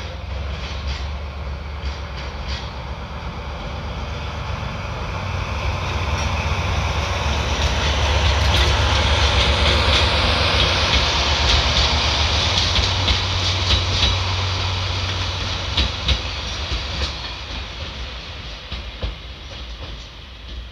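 A diesel locomotive passing while it hauls a rake of new Abukuma Express AB900 railcars. The engine's low rumble and the running noise grow louder, peak about halfway through and fade away, with the clack of wheels over rail joints as the cars go by.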